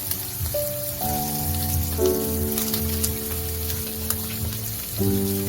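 Food sizzling in hot oil in a frying pan, with scattered crackles and pops, under background music with held chords that change about once a second.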